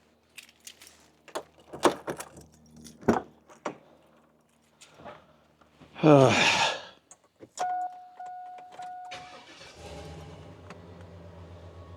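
Keys jangling and knocks as a vehicle is entered, a short loud falling squeal, a steady two-tone warning chime, then an 8.1-litre Vortec V8 starts about ten seconds in and settles to a steady, fairly quiet idle through a Duramax muffler.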